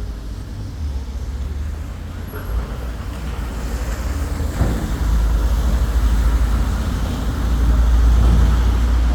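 Road traffic passing at a junction: engine and tyre noise from cars and heavier vehicles, a steady deep rumble that grows louder about five seconds in and again near the end.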